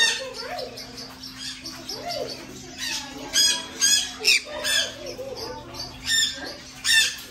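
Pet parrots squawking: a run of short, shrill calls, most of them between about three and seven seconds in.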